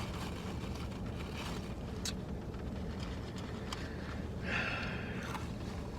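Steady low hum inside a parked car, with a couple of small clicks and a brief faint rustle about four and a half seconds in.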